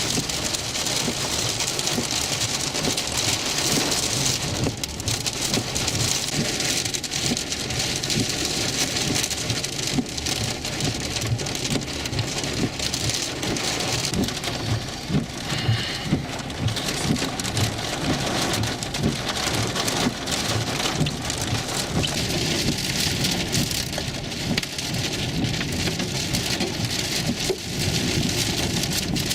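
Heavy rain and hail from a severe thunderstorm drumming on a vehicle: a dense, steady patter with many sharper hits scattered through it.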